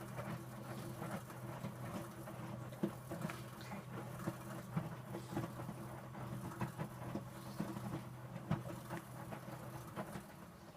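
Electrolux W455H commercial washing machine working through a heated prewash: a steady motor hum with irregular soft patter and clicks of the wet towels and water tumbling in the drum. The hum stops near the end.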